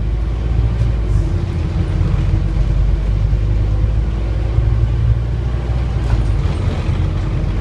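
Scania N230UD Omnicity double-decker bus running steadily under way, its Euro V engine giving a continuous low drone.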